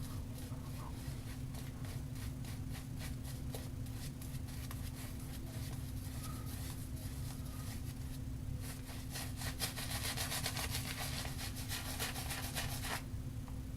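Shaving brush working a thick, creamy shaving-soap lather, with a wet scratchy swishing of the bristles. The strokes speed up into a rapid run about two-thirds of the way through.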